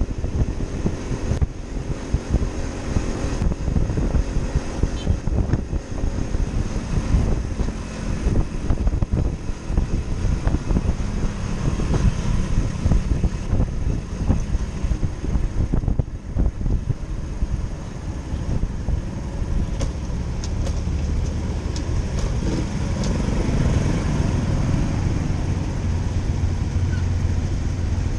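Motorcycle engine running while riding, with road noise. The sound is choppy and uneven at first and settles into a steadier low hum about three quarters of the way through.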